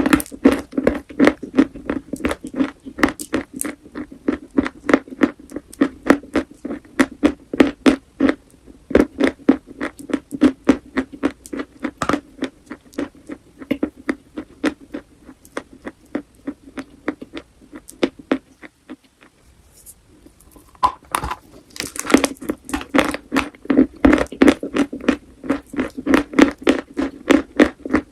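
Close-miked crunching and chewing of chalk, a rapid run of sharp crunches several a second, easing off briefly about two-thirds of the way through before resuming.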